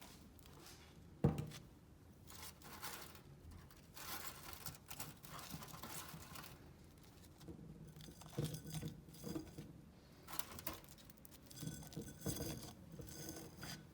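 Scrap being handled by hand: a sharp knock about a second in, then irregular rustling, scraping and light clinking.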